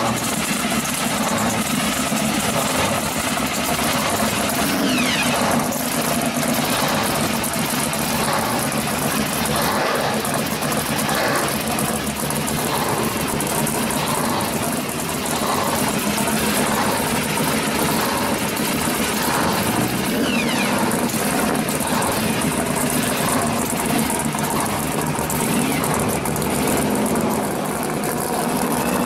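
1970 Chevrolet Nova pro street car's engine idling steadily.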